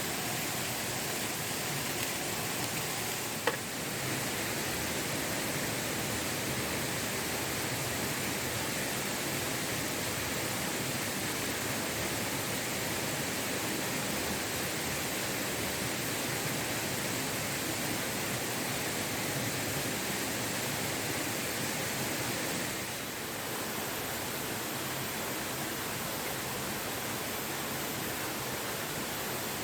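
Steady rushing of a waterfall, with a single short click about three and a half seconds in.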